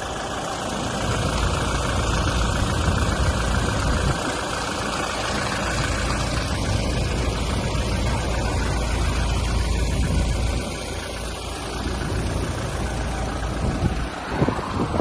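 Toyota Hilux 2.8-litre four-cylinder turbodiesel engine running with a low, steady diesel rumble. There is a brief sweep in pitch near the end.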